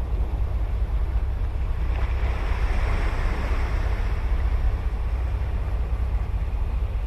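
Ocean surf breaking on a sandy beach over a steady low rumble, with one wave's hissing wash swelling up about two seconds in and fading a few seconds later.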